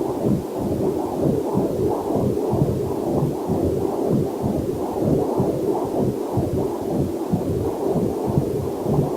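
Heartbeat picked up by a fetal Doppler heart monitor: a steady, fast rhythmic pulse of a little over two beats a second.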